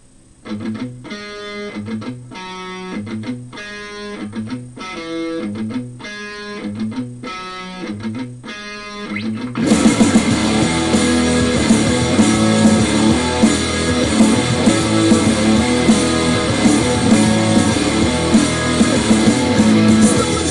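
Rock song intro: electric guitar chords struck alone in a steady pulse, about one a second, then the full band comes in suddenly about ten seconds in, much louder.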